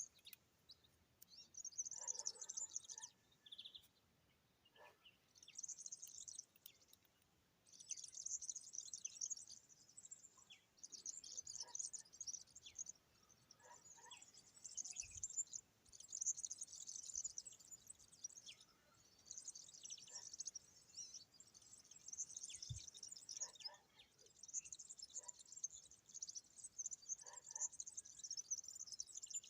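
Small birds chirping and twittering faintly in quick, high-pitched runs that stop and start every second or two.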